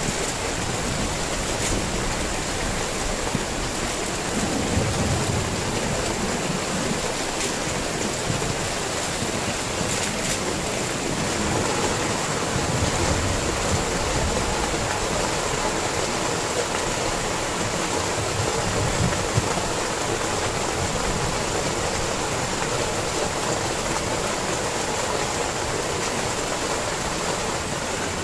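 Heavy rain and running water making a steady, dense rushing hiss that does not let up.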